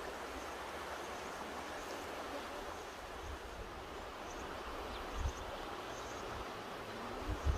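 Mountain river rushing steadily. There are two brief low thumps, about five seconds in and again near the end.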